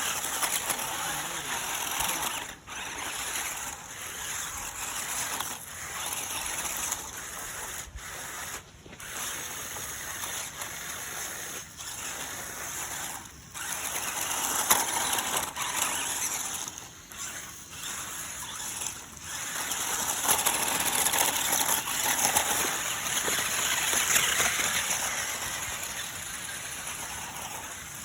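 A remote-control rock crawler truck driving off-road, heard as a rushing, hissing noise that swells and fades, louder in the second half.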